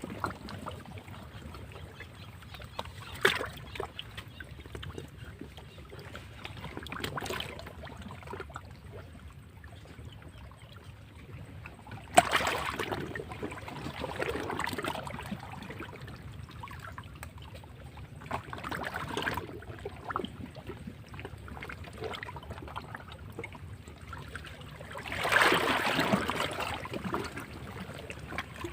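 Sea waves washing and breaking against rocks, in several surges of rushing water, with a sharp crash about twelve seconds in and the loudest wave near the end.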